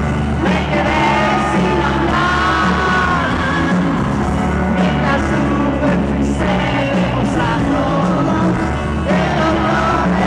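Rock band playing with a lead voice singing over a steady bass line.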